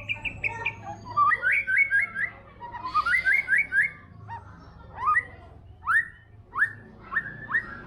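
White-rumped shama singing: quick runs of rising whistled notes, then a string of single loud upslurred whistles spaced about half a second to a second apart.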